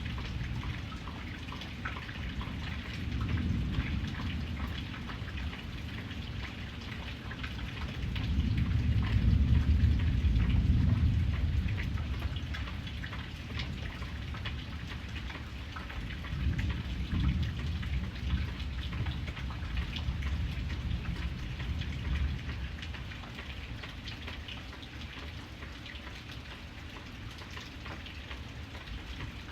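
Steady rain with fine pattering drops. Low thunder rumbles under it, swelling loudest about a third of the way through, then again more softly later.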